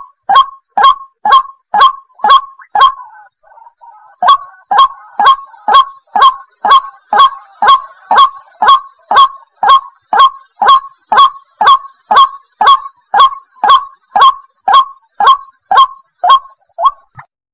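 White-breasted waterhen (chim cuốc) calling: a long, even series of short, sharp notes at about two a second, with a brief break about three seconds in.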